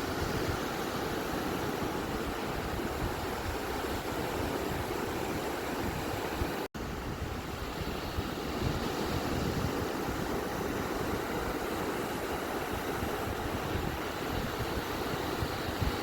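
Ocean waves washing onto a beach as a steady, even rush of surf. It cuts out to silence for a split second near the middle.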